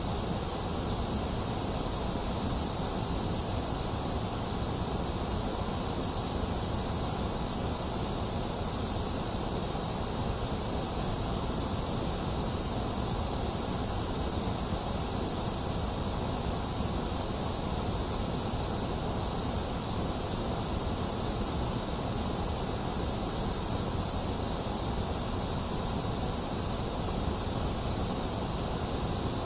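Box fan running steadily, mixed with falling rain: a constant, even hiss that doesn't change.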